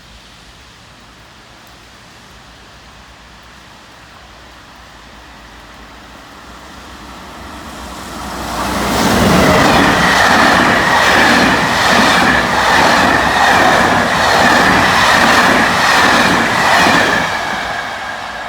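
A train passing through a station: it approaches, growing louder over several seconds, then runs past with a rhythmic clatter of wheels over the rail joints, a little over one stroke a second, under a steady high-pitched tone. Near the end it fades.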